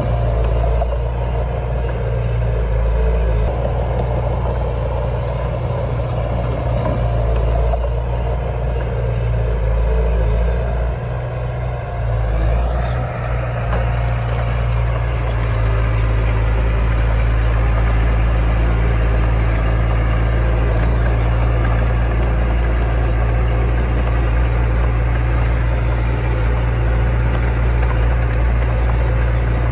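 Heavy diesel engine of earthmoving machinery running steadily. Its sound dips briefly about eleven seconds in, then it runs on with more hiss and clatter in the upper range.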